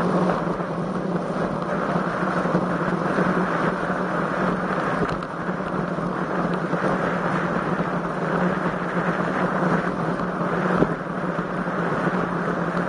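Steady wind rushing over the microphone of a road bike on the move, mixed with road noise, with no break.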